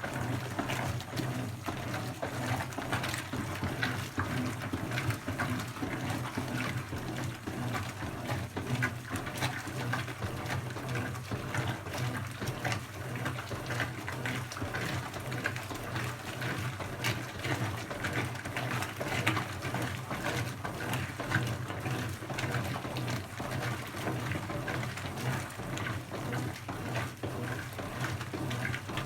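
Brastemp BWK17 top-loading washing machine running mid-cycle: water splashing and sloshing in the tub over a steady low motor hum.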